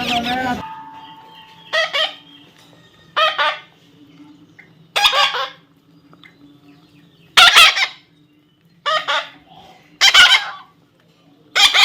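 Parrot squawking: about seven short, loud, harsh calls, a second or two apart.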